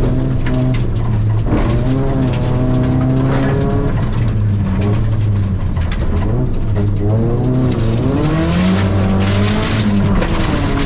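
Toyota Corolla rally car's engine running hard, its pitch rising and falling several times as the driver accelerates, lifts and changes gear.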